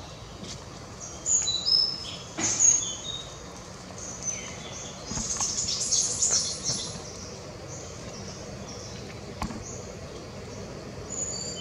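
Short high-pitched bird chirps, a few sliding down in pitch, loudest in the first few seconds, with a busier stretch of chirping around the middle.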